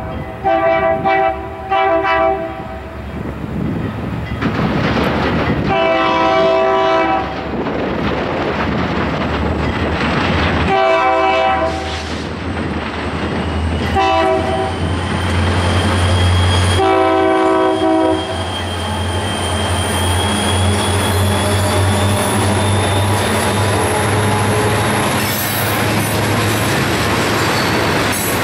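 Florida East Coast freight train's diesel locomotive air horn sounding a series of blasts as it approaches, long ones with a short one before the last. Then the locomotives' low steady drone and the clickety-clack of loaded hopper cars passing, with a thin high wheel squeal that slowly rises in pitch.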